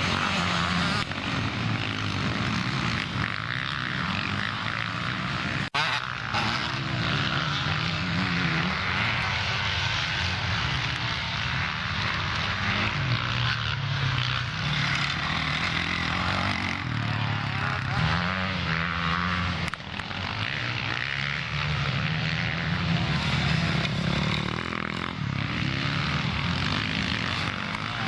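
Motocross bikes racing, several engines running at once with revs rising and falling as riders accelerate and back off.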